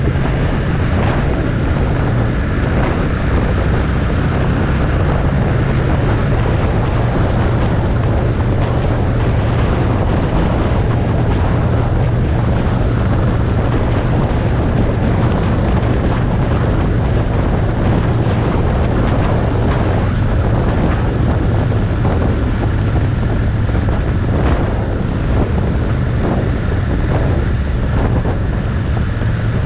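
Motorcycle engine running at a steady cruise, holding an even pitch, under heavy wind noise buffeting the microphone.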